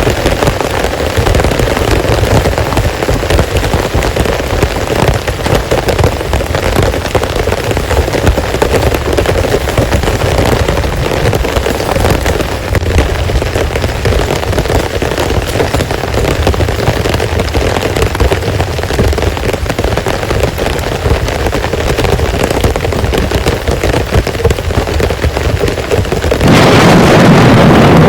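Heavy rain falling steadily, a dense patter of drops, with a louder surge of noise near the end.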